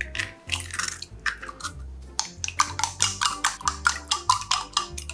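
An egg cracked open, then beaten briskly with wooden chopsticks in a glass measuring cup: rapid clicking, several strokes a second, starting about two seconds in. Background music plays throughout.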